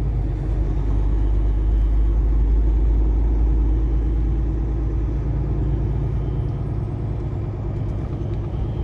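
Kenworth T680 semi truck heard from inside the cab while driving: a steady low engine and road rumble that swells slightly a couple of seconds in, then eases off.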